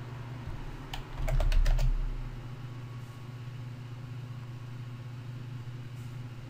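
Computer keyboard typing: a quick burst of about half a dozen keystrokes about a second in, with a low thud under them, over a steady low hum.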